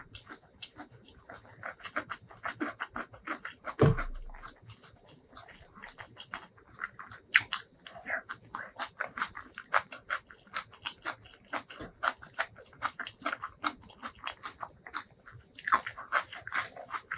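Close-miked chewing and biting of a mouthful of stir-fried water spinach and rice, with many short crisp crunches and wet mouth clicks. A single loud thump about four seconds in.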